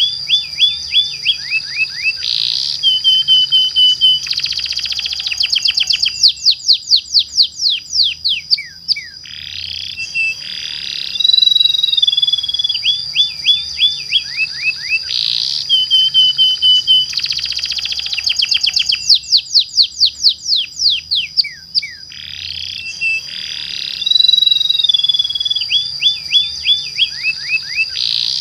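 Domestic canary singing a long rolling song: fast trills, rapid downward-sweeping notes and held whistles, over a thin steady high tone. The same song phrase comes round again about every eleven seconds.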